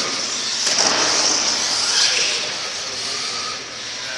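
Monster truck engine running hard during a run, a loud steady noise with a brief sharp spike just under a second in.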